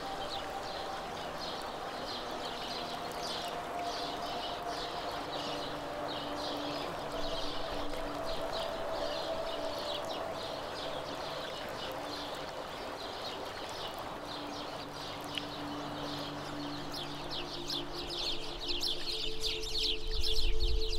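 Birds chirping rapidly and continuously over the steady rush of river water, with soft held tones underneath like background music. The water grows louder near the end.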